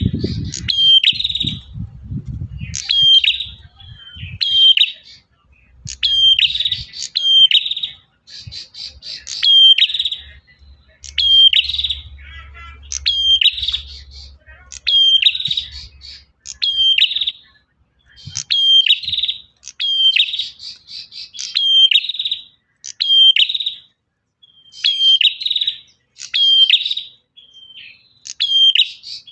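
Male prenjak (prinia) singing its loud, sharp call notes over and over, about one to two a second in quick phrases, the kind of call used to lure other prenjak.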